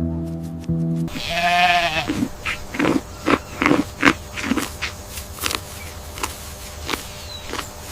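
Farm animal bleating. One long wavering call about a second in, then a run of short bleats.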